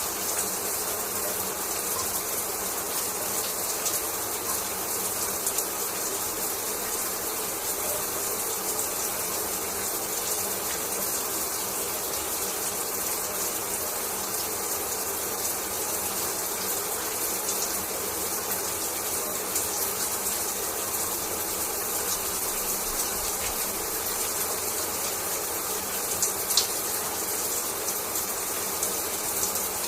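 Shower water running steadily, spray falling and splashing in an even hiss with small droplet ticks.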